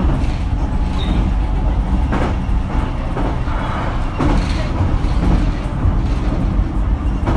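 Interior running sound of a JR Kyushu BEC819 series battery-electric train: a steady low rumble of wheels on rail, with a few brief knocks.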